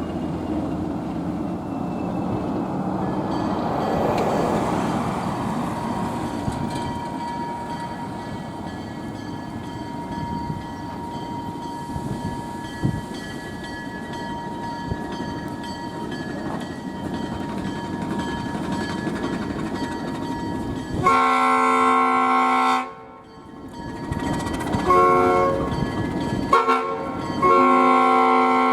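Diesel locomotive, an ALCO RS-1, rumbling as it nears the crossing. About three quarters of the way through, its five-chime Nathan S5T air horn sounds the grade-crossing signal: one long blast, two short ones and a final long blast.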